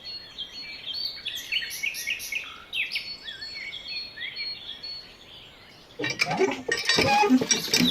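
Small birds chirping, many short rising and falling calls, for about five seconds; about six seconds in, a rush of noise with clicks and knocks starts.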